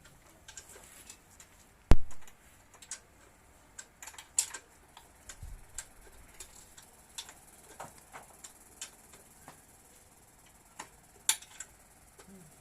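Irregular light clicks and taps of small parts and tools being handled, with one sharp knock about two seconds in.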